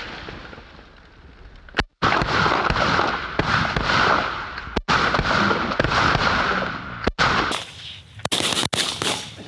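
Volley of shotgun fire from several duck hunters shooting at once. The shots run together into dense, heavy noise that cuts out abruptly three times, with single sharp shots near the end.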